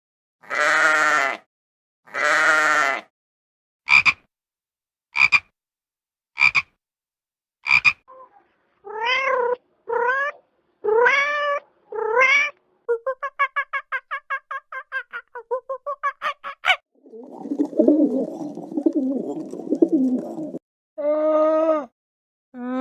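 A string of separate animal calls with silent gaps between them. First come two long calls, then four short sharp calls, then four rising-and-falling meow-like calls. A fast rattling trill follows, then a rough, noisy stretch, then more pitched calls near the end.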